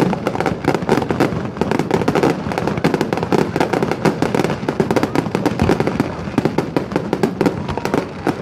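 Fireworks display: a dense, continuous barrage of overlapping bangs and crackling pops with no let-up.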